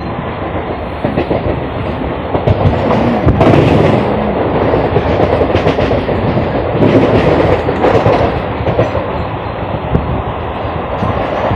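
Electric local train (EMU) running over rail joints and points, its wheels clattering on the rails, heard loud through the open doorway.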